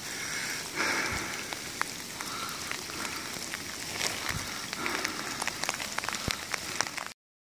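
Steady rain falling through the forest, with many close drops ticking sharply and a few brief rustles. The sound cuts off suddenly near the end.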